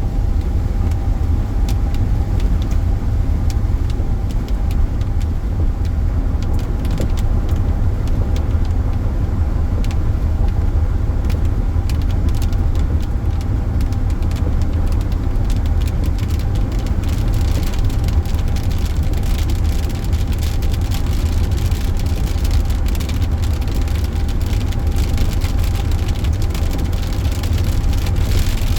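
Steady road and engine rumble inside a car driving at highway speed, with a faint steady whine. From about seven seconds in, more and more sharp ticks come in, as raindrops start hitting the car.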